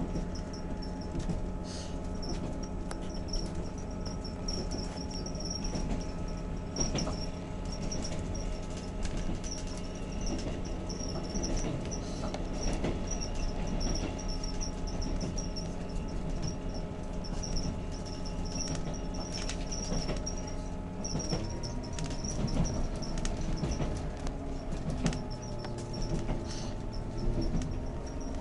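Passenger train running, heard inside the carriage: a steady rumble of engine and wheels with a high squeak repeating a few times a second.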